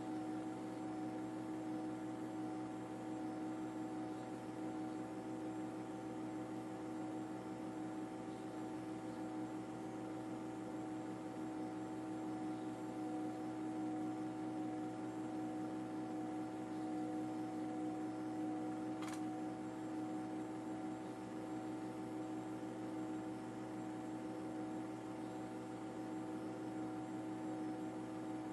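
Steady mechanical drone holding several fixed pitches over a hiss, unchanging throughout, with one sharp click about two-thirds of the way through.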